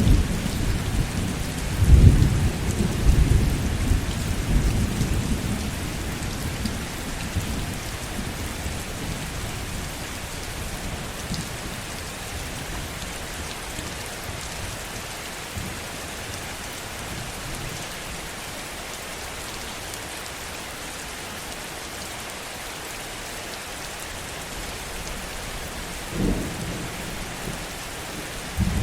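Heavy, steady rain with thunder: a deep rumble in the first few seconds that swells about two seconds in and slowly dies away, and a short low rumble near the end.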